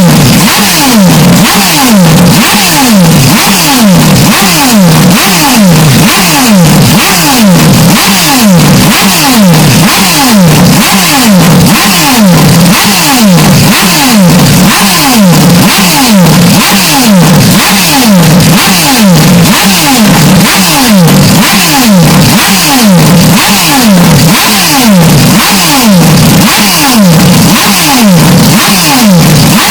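Heavily distorted, clipped racing-car engine noise, very loud, with the same falling pitch sweep repeating evenly about twice a second over harsh hiss.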